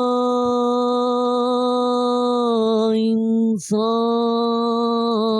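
A man singing a naat unaccompanied, holding one long drawn-out vowel on a steady pitch. About three and a half seconds in he breaks off for a quick breath, then holds another note that starts to waver near the end.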